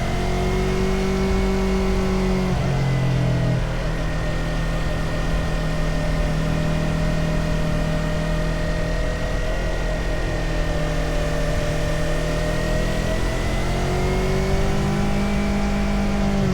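Motorcycle engine running on the road at speed, its note steady for most of the stretch, changing about three seconds in and rising slowly near the end.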